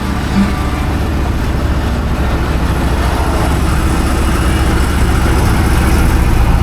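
A motor vehicle's engine running on the road: a steady low drone with road noise, growing slowly louder.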